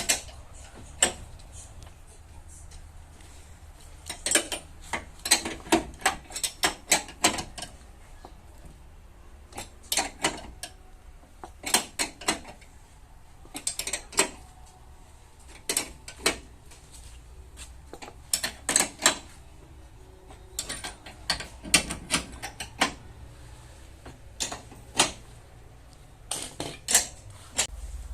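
Light hammer taps on the car's sheet-metal body panel, in short runs of sharp taps with pauses between.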